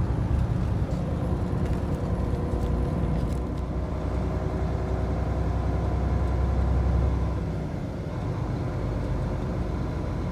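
Truck engine and road noise while driving: a steady low rumble that drops a little about three-quarters of the way through.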